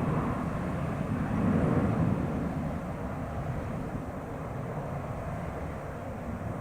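Jet airliner engines rumbling, swelling about a second and a half in and then slowly fading.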